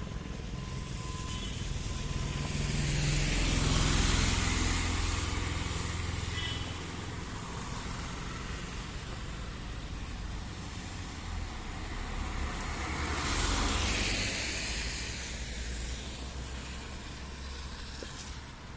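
Vehicles passing on a wet road: tyre hiss swells up and fades away twice, about four seconds in and again about thirteen seconds in, over a steady low engine rumble.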